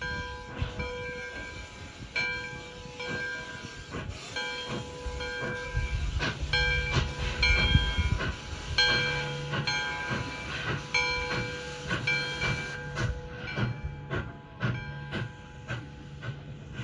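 Nevada Northern Railway No. 93, a 2-8-0 steam locomotive, working with steam hissing. A regular ringing strike comes about once a second, and heavier low rumbling rises for a couple of seconds in the middle.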